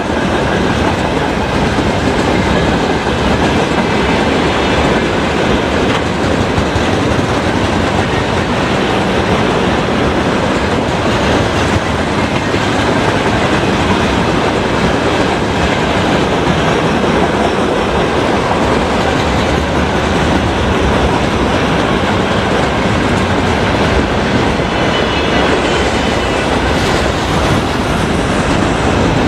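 Freight train wagons rolling past at speed, with a steady loud rumble and the clickety-clack of wheels over the rail joints.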